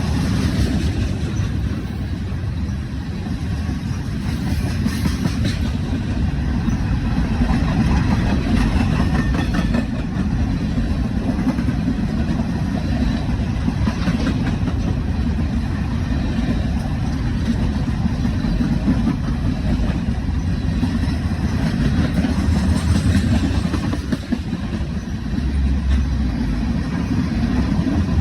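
A train rumbling steadily past, with faint clicks and rattles over the low rumble.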